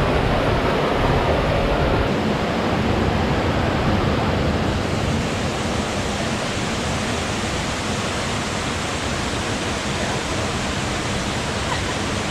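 Waterfall on a mountain creek, water rushing in a steady roar of noise that eases slightly after about five seconds.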